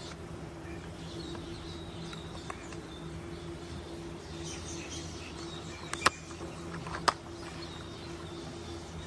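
Two sharp clicks about a second apart over a steady low hum, with faint high chirps in the background.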